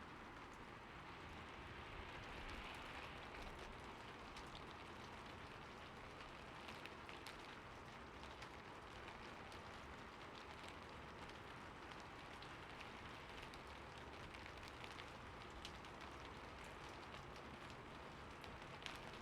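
Steady, soft rainfall: an even hiss of rain with many individual drops ticking sharply on a surface.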